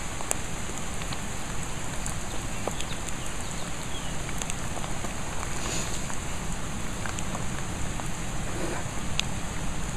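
A steady, even hiss with scattered faint ticks, like rain falling.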